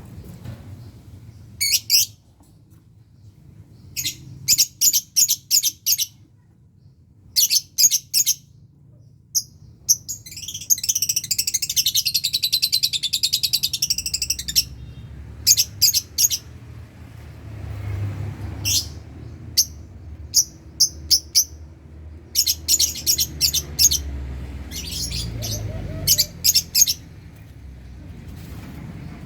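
Lovebirds calling: sharp, shrill chirps in quick runs of three to six, with a few seconds of continuous high chattering about ten seconds in.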